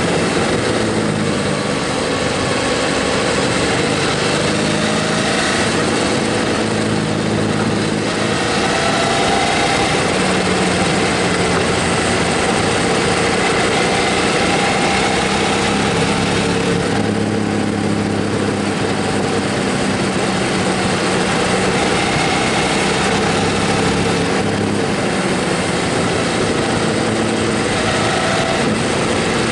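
Motorcycle engine running steadily while riding, under a steady rush of wind noise; the engine pitch shifts up and down several times.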